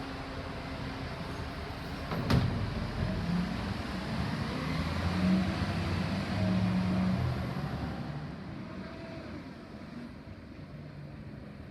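Garbage truck working a collection: a sharp knock about two seconds in, then the engine running harder for several seconds before dying down.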